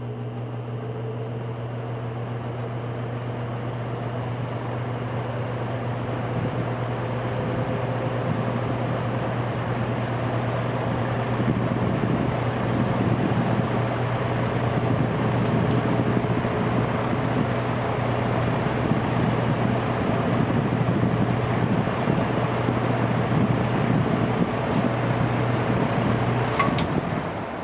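General Electric F15W13 box fan starting up on medium speed: a steady motor hum under a rush of air that grows louder over roughly the first ten seconds as the blades come up to speed, then holds steady. Near the end come a couple of sharp clicks, and the sound begins to drop as the fan is switched off.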